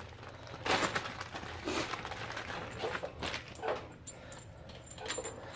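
A handful of short, irregular rustles and light clicks from hands handling a new axle nut and its packaging.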